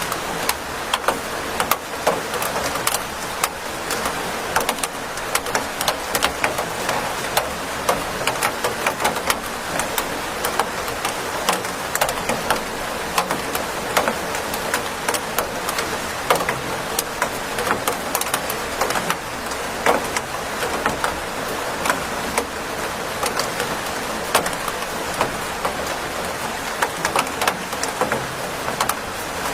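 Steady rain falling, with many distinct drops striking a surface in quick, irregular clicks.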